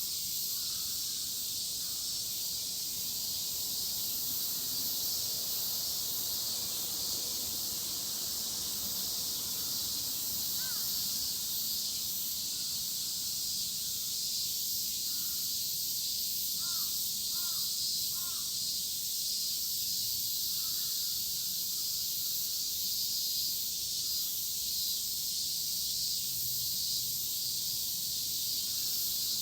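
A dense chorus of cicadas making a steady, high-pitched shrill hiss. A crow caws three times in quick succession a little past the middle.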